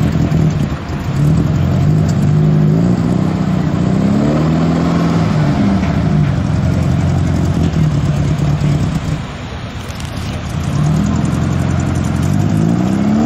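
Puma sports car's air-cooled VW flat-four engine running and being revved up and down several times. It drops back about nine seconds in, then picks up again near the end as the car starts to pull away.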